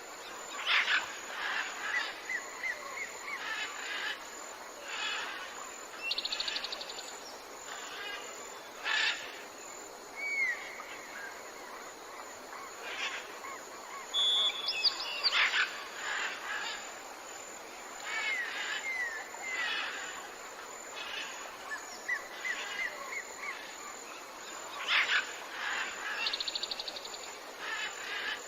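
Several wild birds calling and singing together: short sharp chirps, repeated slurred whistles, and a buzzy rapid trill about six seconds in and again near the end, over a steady natural background hiss.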